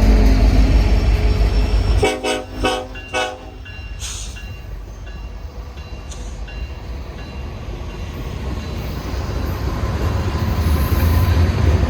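Diesel freight locomotive rumbling, with its air horn sounding three short blasts about two seconds in; the low rumble of the train then carries on more quietly and slowly builds again.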